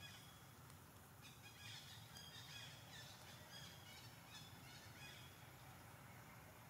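Faint chirping of birds in the background: a run of short high calls from about a second in to about five seconds in, over a low steady background hum.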